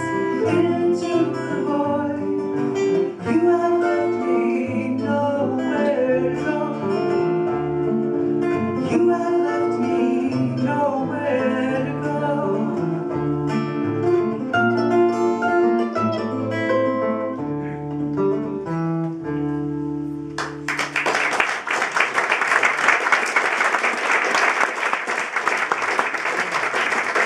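Acoustic guitar plays the closing instrumental passage of a song, with picked notes over bass notes. The song ends about twenty seconds in, and audience applause follows.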